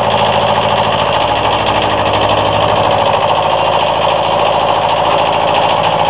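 Kubota L1500 compact tractor's engine running steadily at a constant speed.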